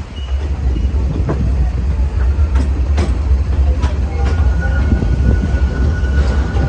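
Amusement-park train heard from aboard a passenger car: a steady low rumble with scattered sharp clicks from the wheels on the rails, and a thin high tone that comes in about four seconds in.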